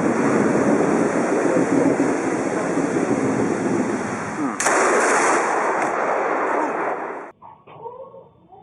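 Heavy rain pouring steadily, then a sudden sharp crack of a close lightning strike about four and a half seconds in, with loud thunder running on until it cuts off abruptly about seven seconds in. After the cut it is much quieter, with faint voices.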